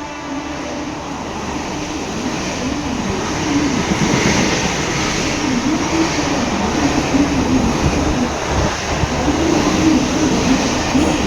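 Mumbai suburban local electric train running past, a loud steady rolling rumble with a low tone that wavers up and down. The tail of the train's horn fades out at the very start.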